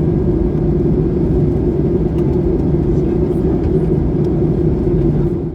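Steady cabin rumble of a Jet2 Boeing 737 airliner in flight or on the runway: engine and airflow noise heard from inside the cabin, with a low, even drone.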